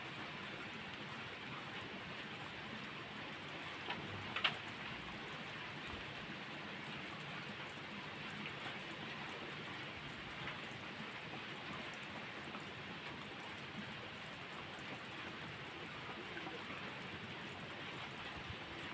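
Steady rain falling, an even hiss of drops, with two sharp pops about four seconds in.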